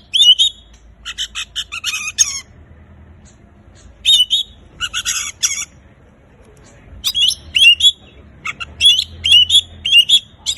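Oriental magpie-robin (kacer) singing loudly in bursts: quick bent whistled notes alternating with harsh, buzzy rasping phrases, in groups with short pauses between them.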